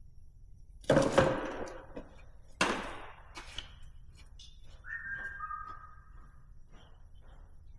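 Hard intake parts being handled: two sharp knocks and clatter about one and two and a half seconds in, then a brief high squeak about five seconds in, followed by light tapping.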